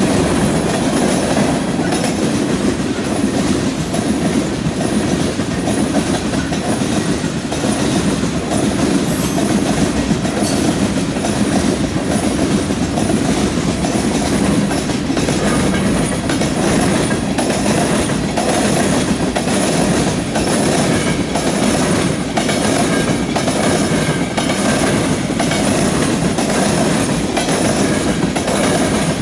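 Freight cars, mostly tank cars, rolling past on the rails: a steady rumble of steel wheels on track with regular clicking as the wheels cross rail joints.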